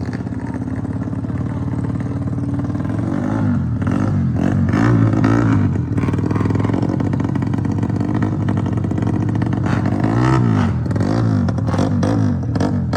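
Motorcycle engines revving hard, the pitch rising and falling several times over and over.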